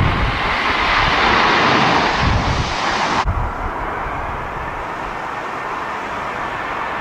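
Jet airliner engines whining and hissing on approach, with gusts of wind rumbling on the microphone. A little over three seconds in the sound breaks off abruptly and a similar engine whine carries on, slowly rising.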